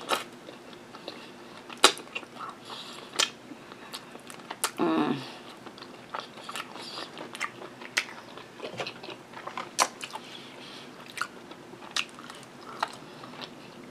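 Close-miked eating: wet chewing, lip smacks and sharp mouth clicks as barbecue rib meat is eaten from the fingers. A short hummed sound comes about five seconds in.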